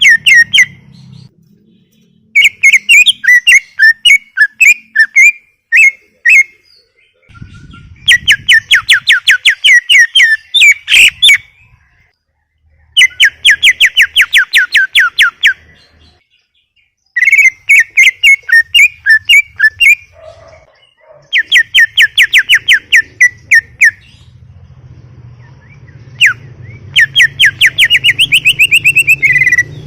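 Green leafbird (cucak ijo) singing in loud phrases of rapid repeated notes, each phrase lasting two to four seconds, with short pauses between them, about six phrases in all.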